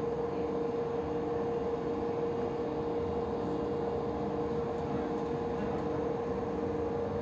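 Interior running noise of a moving electric passenger train: a steady rumble with a constant whine, and a fainter tone beneath it that pulses on and off at an even pace.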